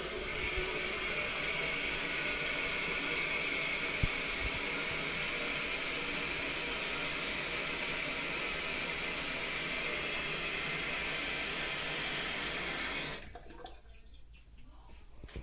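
Toilet tank refilling after a flush: water hissing steadily through the fill valve of a 2020 Jacuzzi Lyndsay toilet. The hiss cuts off suddenly about two seconds before the end as the valve shuts.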